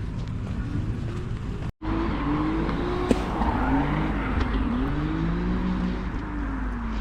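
Motocross bike engines revving up and down, several overlapping pitches rising and falling, over a steady low rumble. The sound cuts out for an instant about two seconds in.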